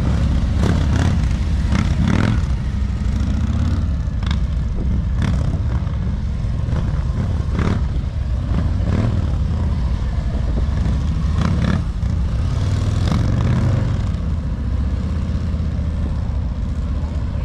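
Large motorcycle engine running at low revs during slow-speed riding, a steady low-pitched rumble with scattered short clicks.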